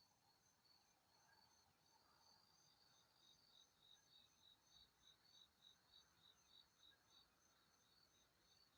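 Faint chirping of insects in a steady, even rhythm of about three chirps a second, with a second, louder chirping series joining in about three seconds in and stopping about seven seconds in.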